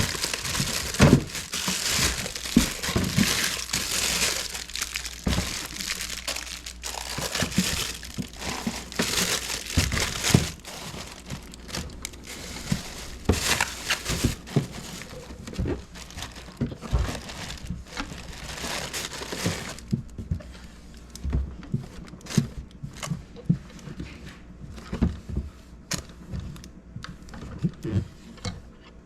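Crinkling and rustling, like plastic being handled, with many scattered light clicks and knocks; it grows quieter about twenty seconds in, leaving only sparse clicks.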